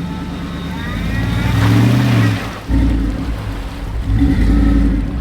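Off-road vehicle engine revving up twice under load as it manoeuvres during a river-crossing recovery, with a sudden brief drop near the middle.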